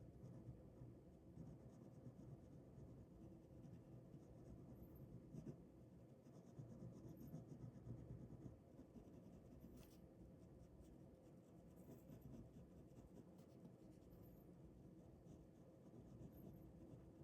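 Faint ballpoint pen scratching on paper in irregular drawing strokes.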